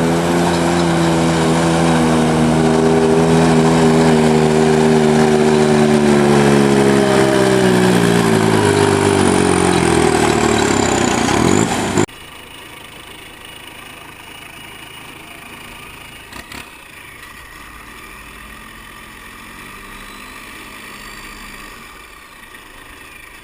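Diesel garden tractor engine running hard under pulling load, its pitch sinking over a few seconds as it lugs down. About halfway through the sound drops abruptly to a much quieter engine running.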